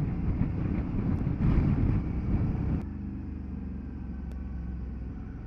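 Motorcycle engine running on the move, with wind noise on the rider's microphone. The sound drops to a quieter, steadier note about three seconds in.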